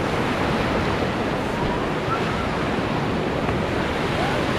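Steady rush of river water around a rafting boat, with wind buffeting the microphone.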